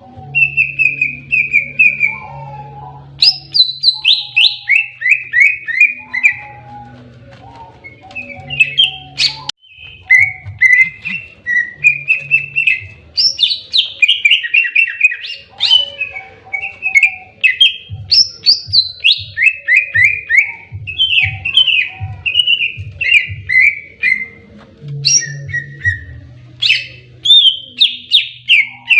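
Green leafbird (cucak ijo) singing its aggressive 'fighting' song: rapid strings of loud, repeated chirps and down-slurred whistled notes, delivered almost without a break.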